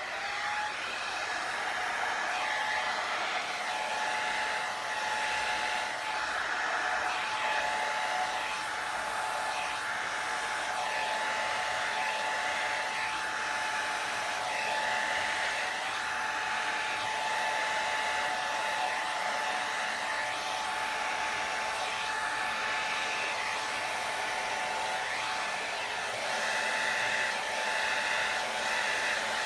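Hair dryer running steadily on a very low setting: a constant whine over the rush of air, used to blow wet acrylic paint across a canvas.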